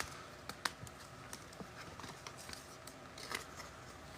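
Faint, irregular light clicks and taps of trading cards being handled at a table.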